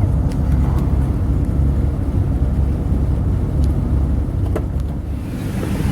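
A motorhome's engine and road noise heard from inside the cab: a steady low rumble. A rushing hiss comes up near the end.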